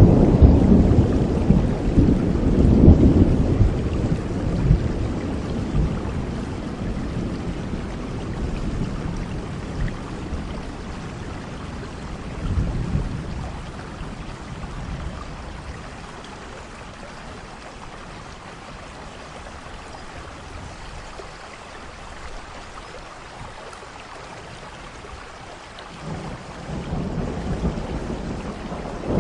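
Steady rain with rolling thunder. A deep rumble fades away over the first several seconds, a smaller one swells about twelve seconds in, and another builds near the end.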